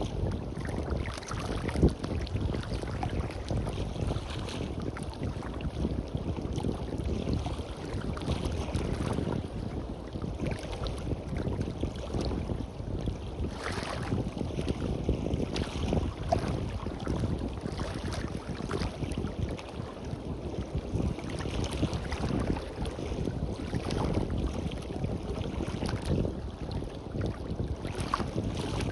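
Wind buffeting the microphone in a steady, gusting rumble, with waves washing on a beach.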